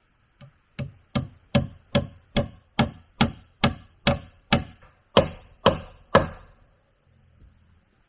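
A tool chopping into wood: a steady run of about fourteen strikes, roughly two and a half a second, starting light and then hitting hard, stopping about six seconds in.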